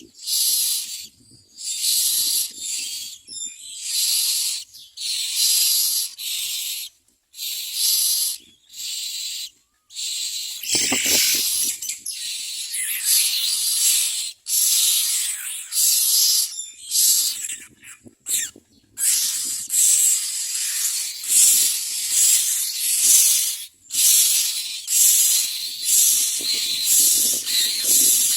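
Nestling birds begging for food with harsh, raspy hissing calls in repeated bursts of about half a second to a second. About eleven seconds in there is a louder rustle.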